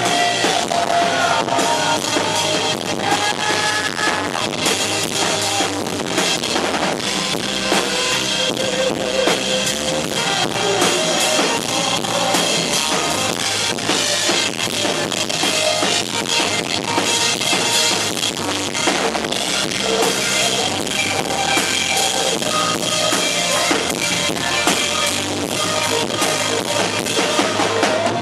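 Live band music with a full drum kit driving the beat, its kick and snare hits prominent under the other instruments.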